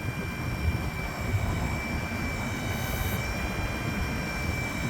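Ford F-550 bucket truck's engine running steadily to power the Altec aerial's hydraulics, a low rumble with a steady high-pitched whine over it.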